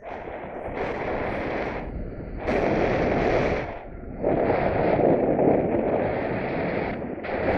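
Wind buffeting the microphone in strong gusts: a rough rushing roar that surges, dips briefly about two seconds in, again near four seconds and just before the end, and comes back each time.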